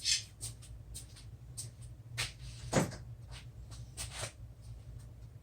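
Handling noises from taking the fence off a miter saw: a string of separate knocks and clicks with brief scrapes, the loudest at the start and about three seconds in, over a steady low hum.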